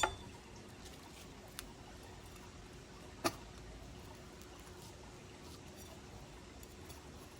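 Quiet room tone with a faint steady hum, broken by a few sharp clicks or knocks. The loudest comes about three seconds in, with a smaller one between.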